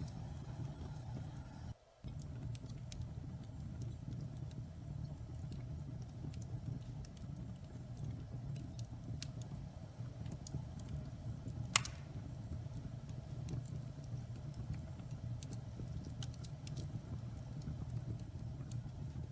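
Wood fire burning in a fireplace: a steady low rumble of flames with scattered small crackles and one louder pop a little past halfway. The sound cuts out for a split second about two seconds in.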